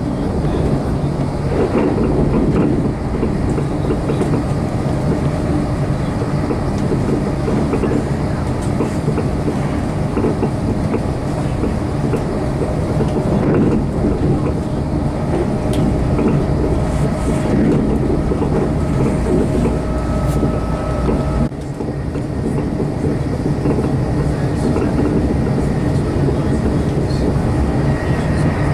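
Train running steadily: a continuous low rumble with some rail clatter and a few faint steady tones, with a brief sudden drop about three-quarters of the way through.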